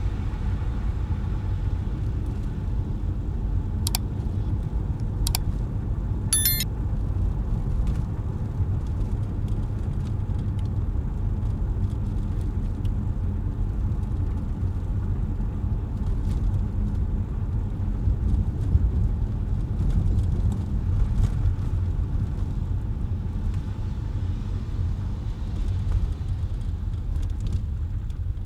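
Car driving on a wet, slushy city road: a steady low rumble of tyres and engine, with a few brief sharp clicks about four to six seconds in.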